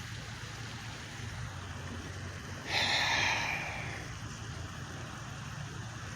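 A person's breath, one sharp exhale or sigh close to the microphone about three seconds in, over a steady low background hum.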